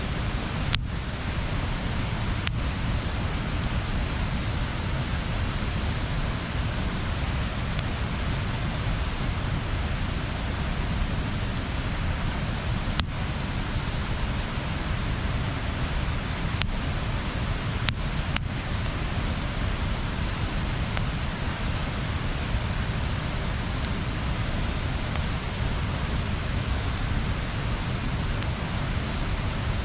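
Wood bonfire burning with a steady rushing hiss, broken by a few sharp crackles and pops of the burning wood, about a second in, near the middle and near the end.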